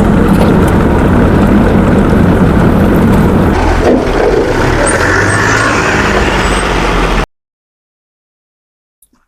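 Fiat 480 tractor's diesel engine running loud and steady, its note changing about halfway through, then cutting off suddenly after about seven seconds.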